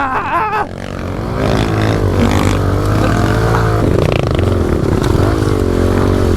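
Small pit bike engine revving as it is ridden, its pitch rising and falling with the throttle; the engine note drops off under a second in, then builds back up and keeps running hard.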